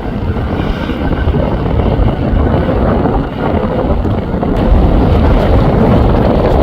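Strong gusting wind buffeting the microphone: a loud, uneven rumble.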